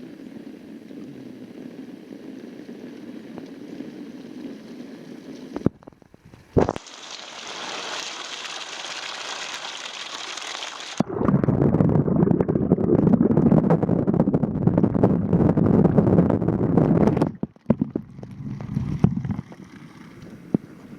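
Water noise on a waterproof camera's microphone, with knocks from handling. About halfway through, a loud, low churning and bubbling sets in as the camera goes underwater; it lasts about six seconds and then cuts off suddenly. Before it there is a steady hiss of rain.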